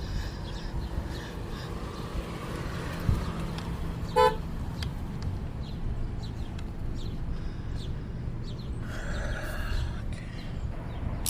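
A car horn gives one short toot about four seconds in, just after a sharp click. It sounds as the new battery's terminals are connected and power returns to the car.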